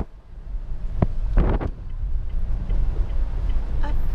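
Strong wind buffeting the microphone as a low, gusty rumble, with a couple of short loud gusts about a second and a half in.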